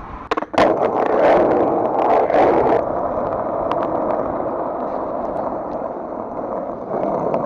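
Skateboard wheels rolling over rough pavement: a steady rumbling noise, with a few sharp clacks near the start as the board is set going.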